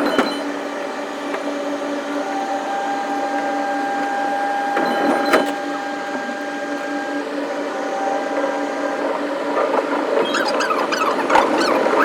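Electric commuter train running, heard from inside the front of the train: a steady mechanical hum with motor whine tones and a sharp click about five seconds in, turning into squealing toward the end.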